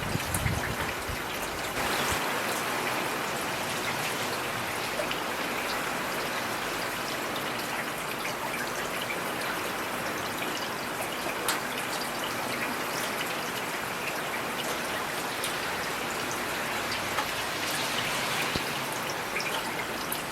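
Heavy rain falling steadily: a dense, even hiss of rain with many sharp individual drop ticks scattered through it, and one brief low thud right at the start.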